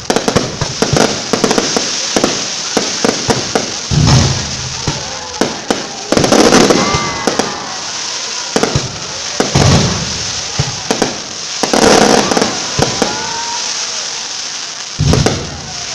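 Aerial fireworks display: dense crackling and popping throughout, with a deep shell burst every two to three seconds.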